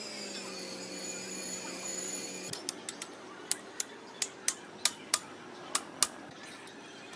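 A steady machine hum that cuts off suddenly about two and a half seconds in, followed by about a dozen sharp, irregularly spaced metallic taps and clinks.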